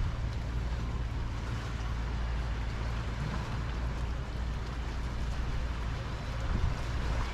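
Harbor shore ambience: a steady low rumble under an even wash of water and wind noise.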